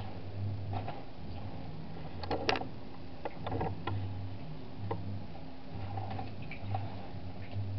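Chicken burger patties frying in a pan, crackling with scattered irregular pops, over a steady low hum.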